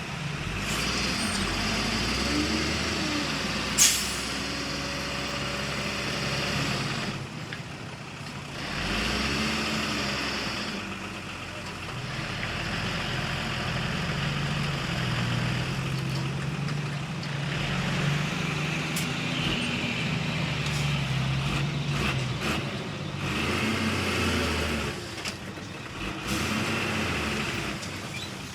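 Diesel engines of earthmoving machinery (dump trucks and a bulldozer) running and changing speed, with several hissing bursts of one to two seconds. A single sharp clank comes about four seconds in.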